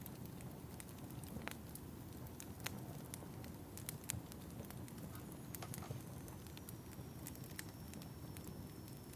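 Wood fire crackling in a fireplace: a steady low rumble of flames with scattered sharp pops at irregular intervals. A faint thin high whistle, falling slightly, comes in about halfway through.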